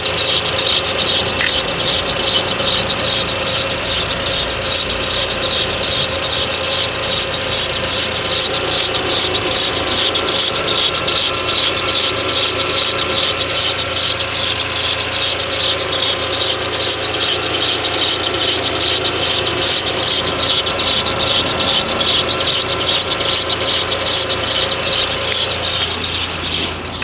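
1.8T turbo four-cylinder engine running on a cold start, with a loud, rapid, chirping squeal from the timing belt area. The squeal comes from the timing belt dragging over a seized tensioner idler bearing, the small one, not the big pulley.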